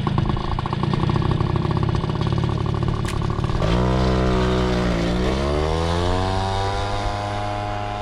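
A 50cc scooter engine running after a restart, testing whether it still loses power. It runs with a fast, even putter, and about halfway through its pitch dips and then climbs back up to a steady pitch.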